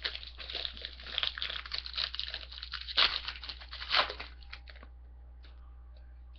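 Foil trading-card pack wrapper crinkling and being torn open by hand. The crackle is dense and uneven, with two louder rips around three and four seconds in, and stops shortly before five seconds in.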